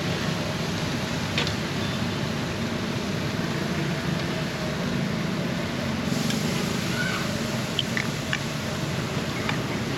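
Busy market ambience: a steady low rumble like traffic and a crowd, with a few short clinks and ticks scattered through.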